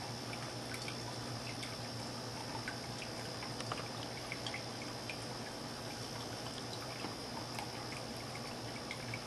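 Water trickling in a stoneware cat fountain over a steady low pump hum, with small irregular ticks and a steady high-pitched tone.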